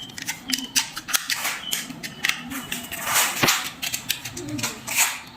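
Irregular sharp clicks and snaps of hand tools and small parts being worked on switch board wiring, a cluster of louder snaps a little after three seconds in.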